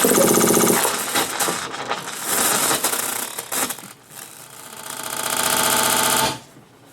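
Improvised music for saxophones and live electronics: a dense, rapidly stuttering, rattling texture that fades, swells again and cuts off suddenly near the end.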